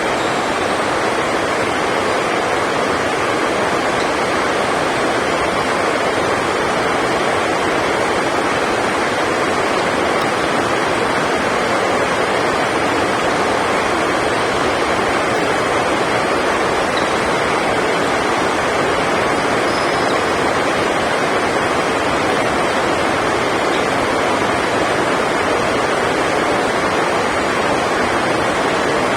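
Heavy rain falling on the sports hall roof, a steady, even rush of noise with no breaks.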